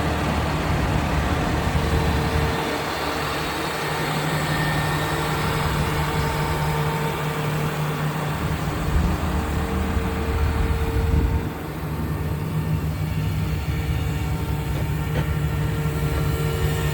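Diesel engine of a Peterbilt 337 service truck running steadily. Its low note changes about two and a half seconds in and again past the middle.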